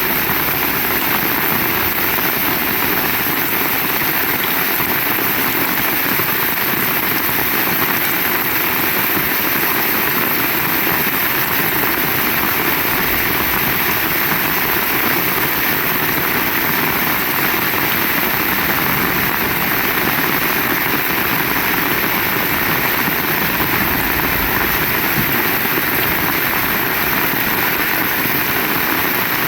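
Heavy rain falling steadily: a loud, even hiss with no break.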